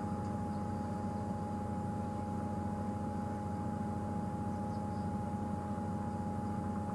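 Safari game-drive vehicle's engine idling steadily, with a thin steady whine held above the low rumble.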